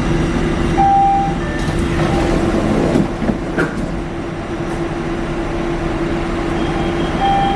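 Buffalo Metro Rail light-rail car running through its underground tunnel: a steady rumble with a running hum. A short beep sounds about a second in and again near the end.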